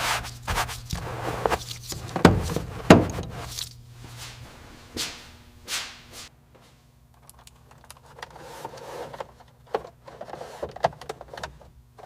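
Knocks, clunks and scrapes of hand tools and metal parts being worked on an SUV's hinged body panel, as the shim comes out and the hinge bolts are tightened. They are busiest in the first few seconds, over a low hum that stops about halfway. Sparser small clicks follow.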